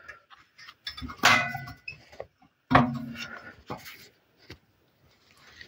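Metal clanks from handling a small enamelled wood stove: two sharp knocks about a second and a half apart, each ringing briefly, with a few lighter knocks between.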